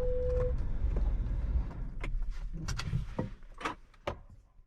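Car interior as the car comes to rest: a steady electronic beep tone cuts off about half a second in, and the low engine and road rumble dies away. A handful of sharp clicks and knocks follow over the next two seconds, growing fainter.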